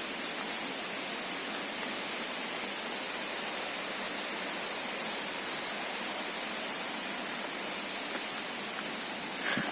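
Steady, even rushing of flowing water, with a thin high-pitched tone held over it.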